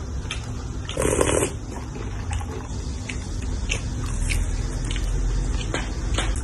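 Close-up eating sounds: a person chewing a fried chicken burger, then biting into a chicken nugget, with wet mouth sounds and scattered small clicks and a louder burst of noise about a second in.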